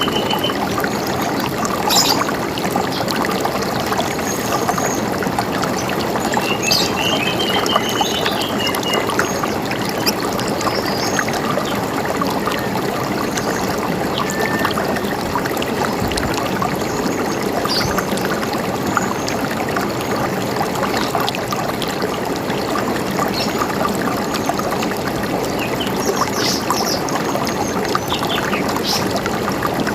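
A river running and gurgling steadily, with birds chirping now and then over it and one short trilled call about a quarter of the way in.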